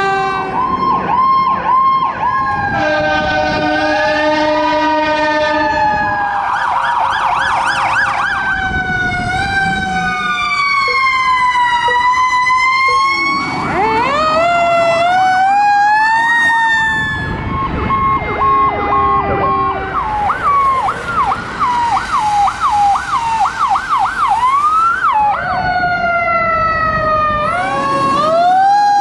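Emergency vehicle sirens responding in a run of short clips: electronic sirens wailing up and down and switching to a fast yelp, a steady horn-like blast, and a mechanical siren winding up from low pitch, over truck engines.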